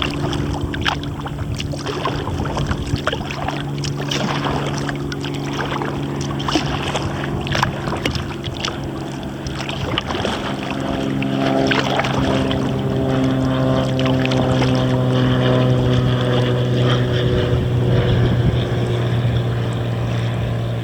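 A motorboat's engine drones steadily, growing louder and shifting in pitch about halfway through. Short splashes and drips from the kayak paddle sound over it.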